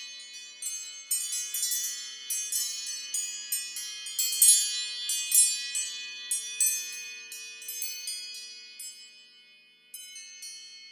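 An iPhone iOS 17 ringtone playing: bright, chime-like notes struck in quick succession, each ringing and dying away. It fades out in its second half, and a new tone starts about ten seconds in.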